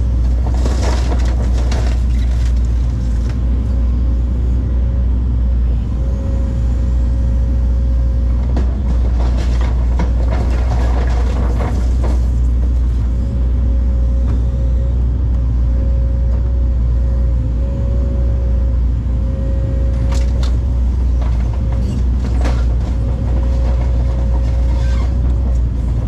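Heavy diesel machinery running steadily, with a whine that comes and goes and several crashes and clatters of debris, about a second in, near the middle and later on.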